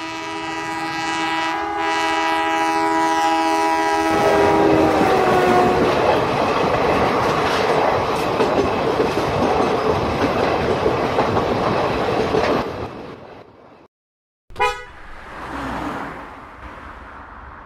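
A train's multi-tone horn sounding a chord, its pitch dropping about four to five seconds in as it passes. The rumble and wheel clatter of the passing train follow, fading out about thirteen seconds in. After a brief break, a short loud burst is followed by a quieter hiss.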